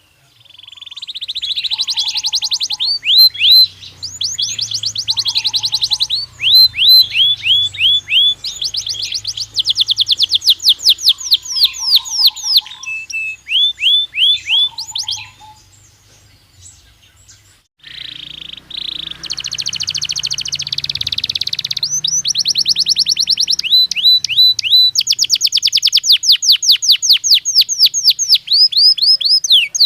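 Belgian canary singing: long phrases of fast trills made of repeated high, falling notes, each phrase changing speed, with a pause of a couple of seconds in the middle before the song starts again.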